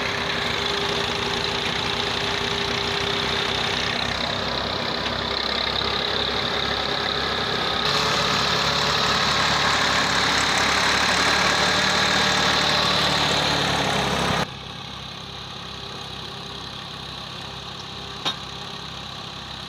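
Tractor engine running steadily while it turns the lever of a clay brick-making machine through its wheel. It grows louder about eight seconds in, then drops suddenly to a quieter running sound about fourteen seconds in. There is a single sharp click near the end.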